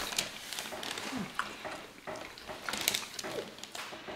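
Close-miked chewing and mouth sounds of people eating burrito bowls: irregular wet clicks and smacks, with light taps of forks in the bowls.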